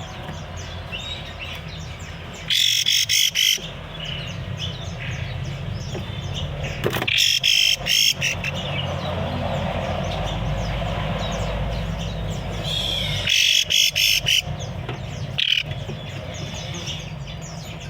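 Many caged songbirds chirping and twittering together. A nearby bird breaks in loudly with about three short, high, rapid bursts of song.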